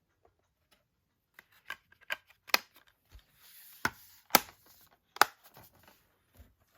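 Plastic clicks and light handling rustle as Blu-ray discs are pressed back onto the hubs of a steelbook case: a string of small clicks, with three sharp ones about two and a half, four and a half and five seconds in.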